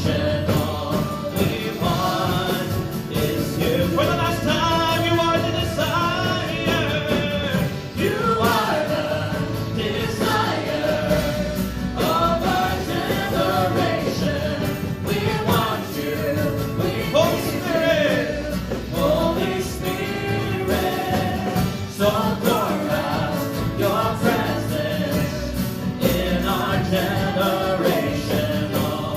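Christian worship song: voices singing a melody over band accompaniment.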